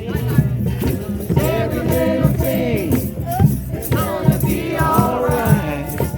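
Drum circle: many drums struck together in a rhythm while a group of people sing a song along with them.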